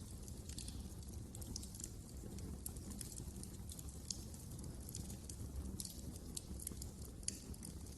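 Fireplace fire crackling: frequent, irregular sharp pops and snaps over a steady low rumble of the flames.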